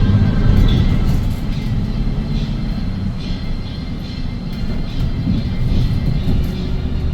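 2017 Hyundai Green City city bus's six-cylinder CNG engine running as the bus drives along, heard from inside the cabin. The engine note eases about a second in and picks up again near the end.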